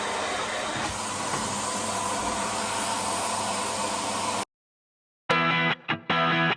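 Commercial vacuum cleaner running with a steady hissing rush of air, cut off abruptly about four and a half seconds in. After a short silence, music starts near the end.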